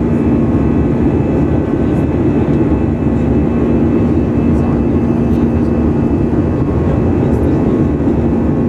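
Inside the cabin of an Airbus A320-214, its CFM56 turbofan engines running at high thrust: a loud, steady rush of engine and airflow noise with a constant low hum.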